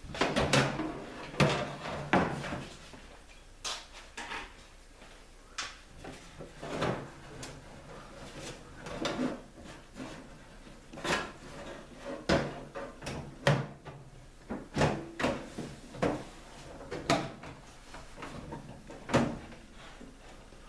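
Microwave's sheet-metal outer cover being handled and fitted back onto the chassis: a series of irregular knocks and clatters.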